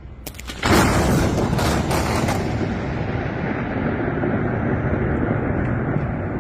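Close lightning strike: a sudden loud crack a little under a second in, with several sharp snaps over the next two seconds, then thunder rumbling on.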